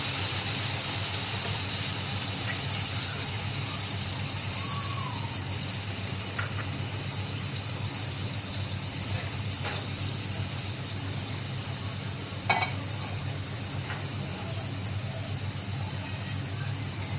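Chicken and tomato paste sizzling in an aluminium pot, a steady hiss that slowly dies down over a low hum. A few light clicks sound through it, the sharpest about twelve and a half seconds in.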